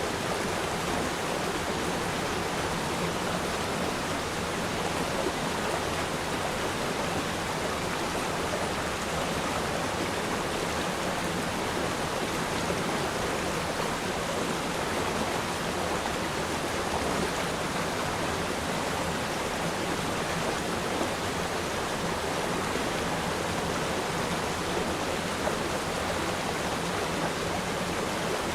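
Stream of water flowing over rocks: a steady, even rush of water with no pauses or sudden sounds.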